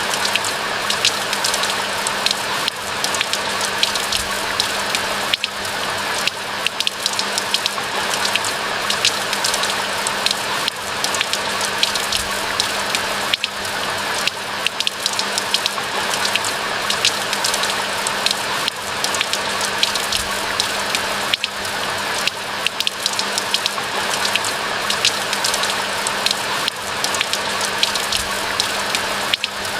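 Steady rain falling, a dense run of individual drop impacts over an even hiss.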